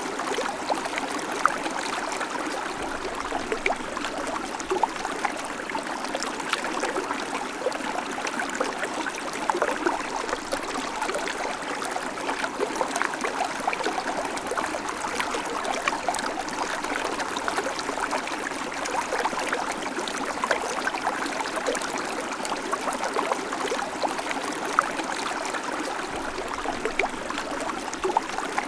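Babbling creek: shallow water running over stones, a steady splashing, trickling flow with many small bubbling flecks.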